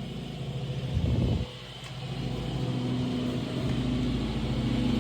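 Honda CRF150R dirt bike's four-stroke single-cylinder engine running, with a short throttle blip about a second in that drops away, then running steadily and slowly building in level.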